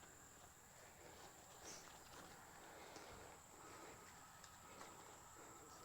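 Near silence: faint outdoor background with a thin, steady high-pitched whine and a few faint ticks.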